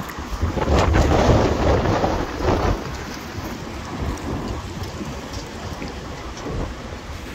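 Storm-force wind gusting and buffeting the microphone with a deep rumble. The gusts are strongest in the first few seconds, then ease to a steadier rush.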